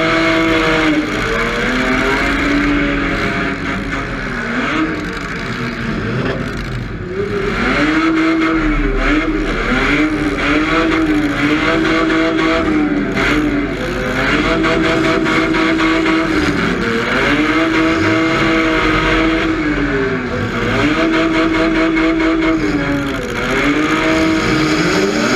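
Demolition derby car's engine being revved hard: the pitch climbs, holds flat for a second or two, then drops, over and over every two to three seconds, with rough noise from the car underneath.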